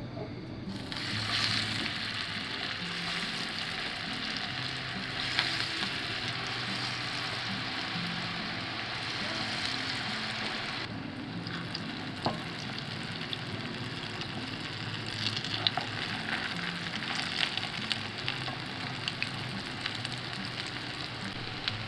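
Cornflake-coated cutlets shallow-frying in hot oil in a non-stick frying pan, a steady sizzle that eases somewhat about halfway. In the second half a wooden spatula taps and scrapes the pan a few times as the cutlets are turned.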